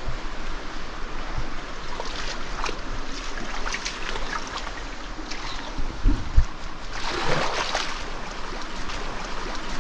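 Canyon stream water running steadily, with scattered small splashes and a louder splashing patch about seven seconds in. Two short low bumps come just after six seconds.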